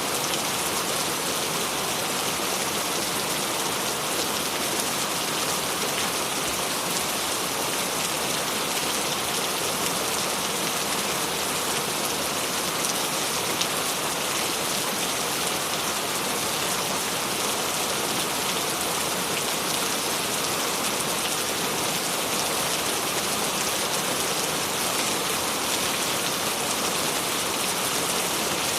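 Steady rain falling on a surface, an even hiss with scattered individual drops, unchanging throughout.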